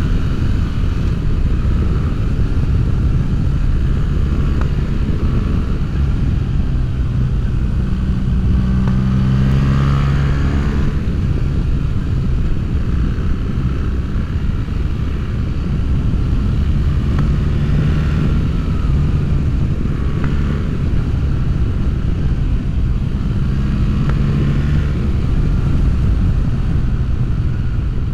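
BMW R1300GS boxer-twin motorcycle running under way through an Akrapovic full-system exhaust with a decat mid-pipe, its engine note rising and falling several times.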